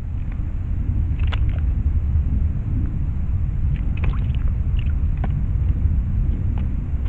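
Steady low rumble with a few short, high chirps scattered through it.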